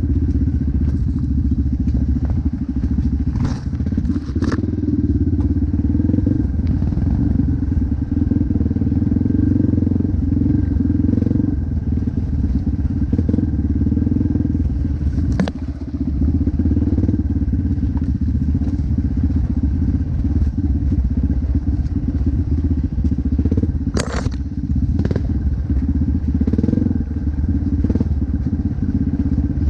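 Motocross dirt bike engine running continuously while being ridden, with a few sharp knocks or clatters scattered through.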